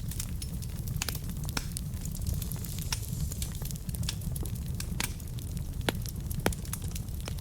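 Log fire burning in a fireplace: a steady low rumble with irregular sharp crackles and pops, two louder pops about six seconds in.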